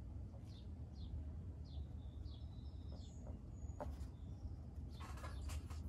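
A small bird chirping over and over, short high falling chirps about twice a second, heard faintly over a steady low hum. A brief scratchy rustle comes near the end.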